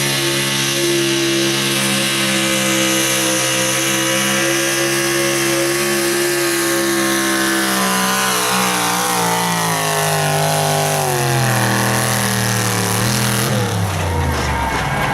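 Super stock pulling truck's engine running flat out at high, steady revs. About halfway through, its pitch starts falling steadily as the truck slows under the sled's load, then drops sharply near the end.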